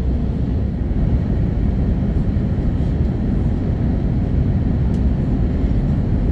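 Steady low rumble of airflow and engines heard inside the cabin of an Airbus A320neo with Pratt & Whitney PW1100G geared turbofans, cruising on its descent toward landing.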